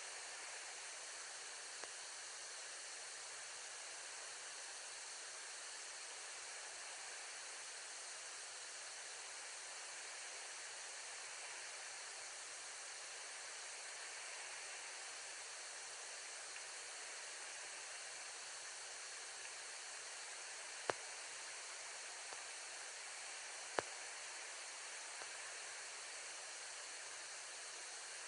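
Steady even hiss of outdoor background noise, with two sharp clicks about three seconds apart near the end.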